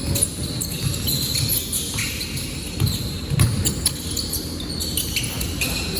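Basketball bouncing on an indoor court: a few irregular thumps over a steady background of crowd and court noise.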